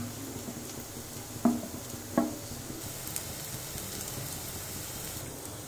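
Chopped onions, garlic and green chilies frying in oil in a non-stick pan: a steady sizzling hiss. Two short, louder sounds cut in, about a second and a half in and again just over half a second later.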